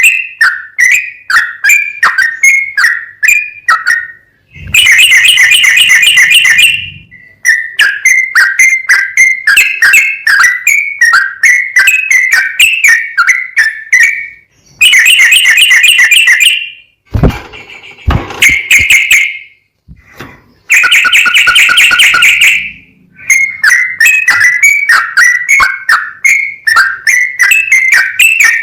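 Sooty-headed bulbul (trucukan) singing fast, bright, repeated whistled notes. It breaks three times into loud, dense rapid trilling, about five, fifteen and twenty-one seconds in, with a brief jumble of varied notes just before the last trill.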